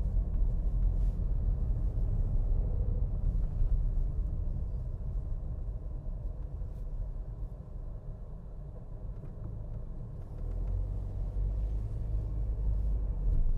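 Low, steady rumble of a car on the move. It eases a little about seven seconds in and builds again near the end.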